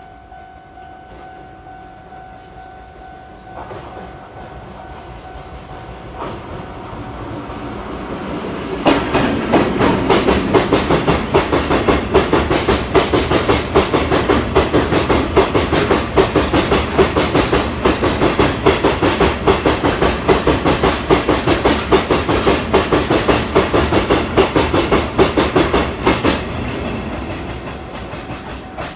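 Freight train hauled by Deki 500-class electric locomotive Deki 506 passing through without stopping. A rumble builds as it approaches. About nine seconds in, it turns into a loud, rapid, rhythmic clickety-clack of the hopper wagons' wheels over the rail joints, which runs for some seventeen seconds and fades near the end as the last wagon goes by.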